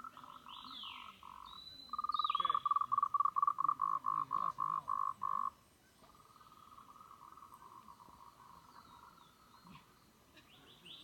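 Frogs calling: trains of rapid notes at one steady pitch, one loud caller from about two seconds in to about five and a half seconds, with fainter ones before and after. A bird gives a few short falling whistles near the start and again at the end.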